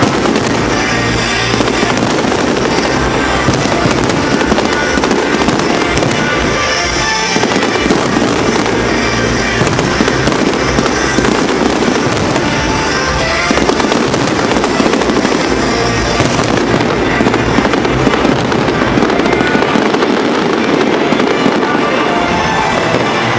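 Fireworks display salute: a dense, continuous barrage of rapid bangs and crackling shells with no pause.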